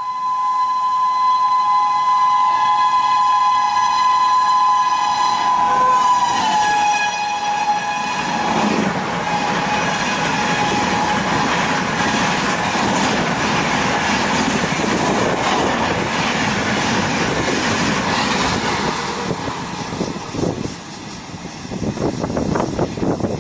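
Passenger express locomotive sounding a long two-tone horn as it runs in at speed, the horn dropping in pitch about six seconds in as the train passes. Then the steady rush and clatter of the express coaches running through the station.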